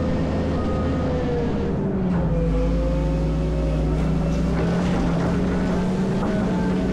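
Caterpillar 140M motor grader's diesel engine running steadily, its pitch sagging a little about two seconds in and then holding.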